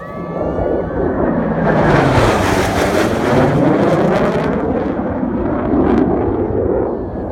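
Jet aircraft making a low flyby: a loud roar that builds about a second in, peaks, then falls away, its pitch sweeping down as it passes.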